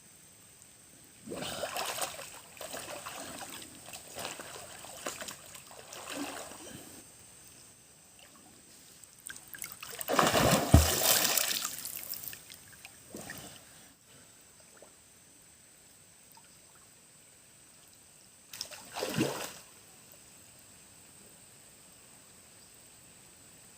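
Water splashing in a shallow river as people wade and grope along the bottom for river clams, in uneven bouts: a long stretch early, a louder burst about ten seconds in, and a short splash near the end.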